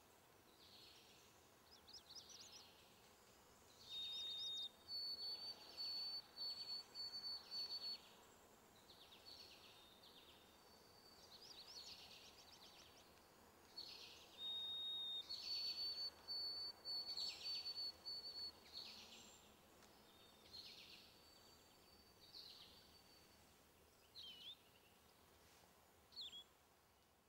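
Faint birdsong: repeated chirps and quick trills, with several long, steady, high whistled notes. It fades away near the end.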